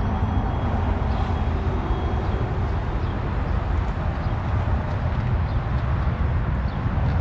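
Motorcycle on the move: a steady low engine drone under a constant rush of wind and road noise.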